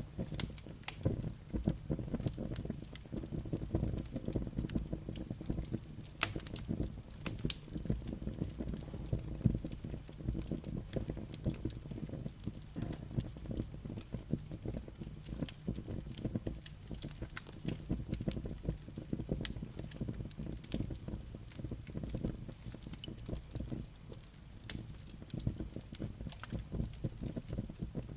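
Wood fire burning in a fireplace: a low, dense rumble of flames with frequent sharp crackles and pops from the burning logs and embers.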